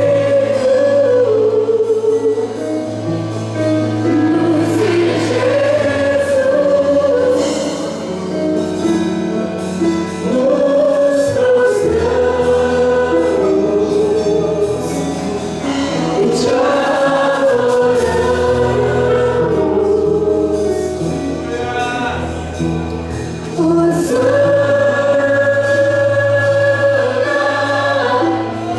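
Gospel music: a choir of voices singing a melody over sustained bass and band accompaniment.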